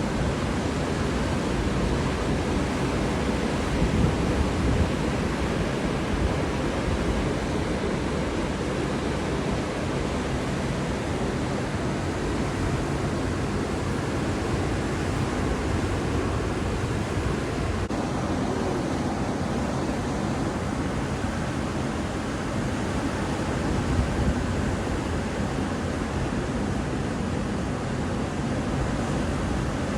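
Atlantic Ocean surf: waves breaking on the beach in a steady, continuous wash.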